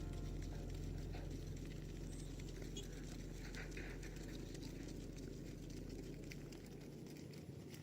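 Cattle moving over a field: faint scattered hoof steps and rustling, over a low steady hum that fades out near the end.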